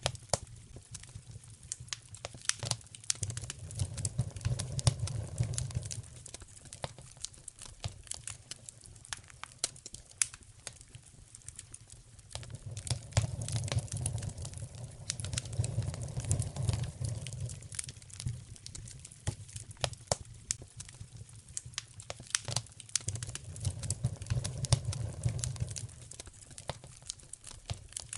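Wood fire crackling in a fireplace, with frequent sharp pops and snaps. Under them runs a low rumble that swells and fades three times.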